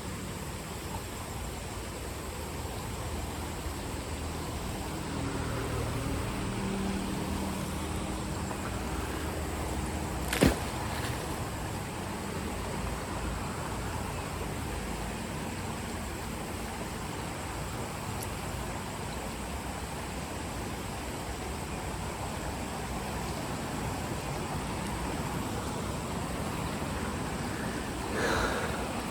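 Steady rushing noise, with a faint low hum about a quarter of the way through and a single sharp click about ten seconds in.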